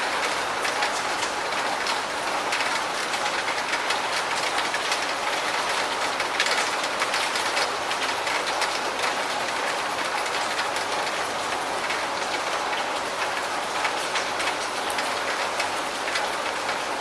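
Steady rain: a constant hiss with many small, sharp drop ticks scattered through it.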